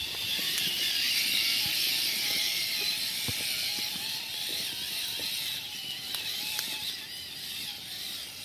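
Small electric motor and gears of a scale RC trail truck whining, the pitch rising and falling with the throttle, with scattered clicks as it crawls, over a steady high-pitched buzz.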